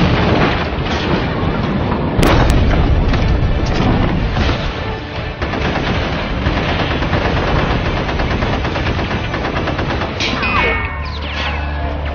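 Rapid gunfire and booms mixed with background music, the shots coming in dense, closely spaced strokes. Near the end there are a few falling whistle-like tones.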